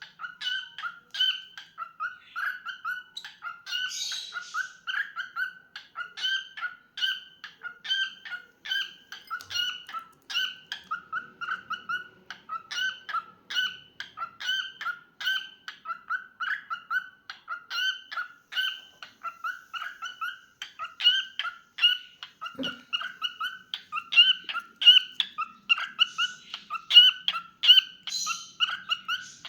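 Cockatiel chirping in a long, steady run of short, repeated notes, about two or three a second, all at much the same pitch.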